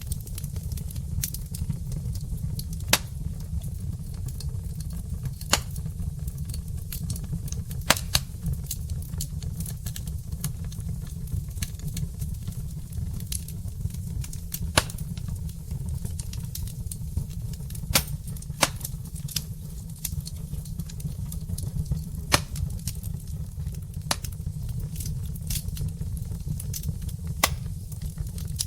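Wood fire burning in a fireplace, crackling with irregular sharp pops and a few louder snaps over a steady low rumble.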